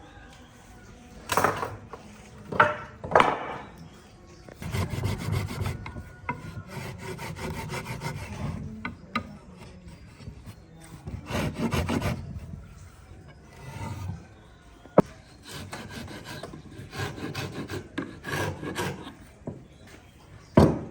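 Wood being rubbed and scraped by hand, in irregular passes with a run of quick even strokes, broken by several knocks and one sharp click.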